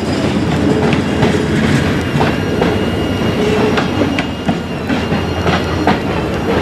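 Freight train rolling along the rails: wheels clacking and knocking irregularly over a steady low rumble, with a faint high whine near the middle.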